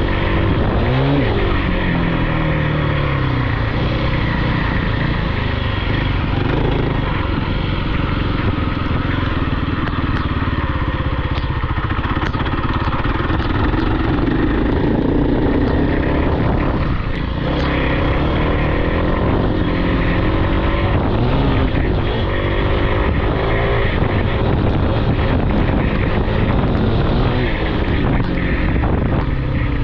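Off-road vehicle engine running hard and revving, its pitch rising and falling again and again as the throttle is worked.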